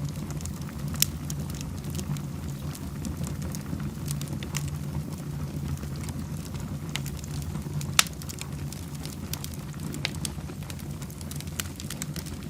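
Wood fire burning in a fireplace, crackling with scattered sharp pops over a steady low rumble; the loudest pops come about one second and eight seconds in.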